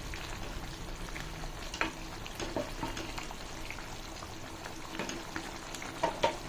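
Chicken curry masala frying and sizzling in a pan as it is stirred and browned (bhuna), with a spoon knocking against the pan a few times.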